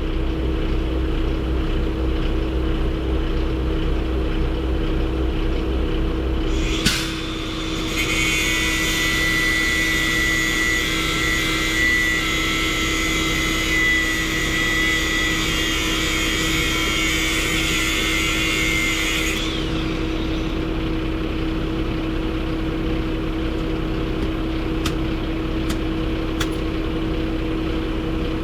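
Truck engine running steadily under way, a constant low drone with a fixed hum. A sharp click comes about seven seconds in, then a higher rushing sound runs for about eleven seconds and stops.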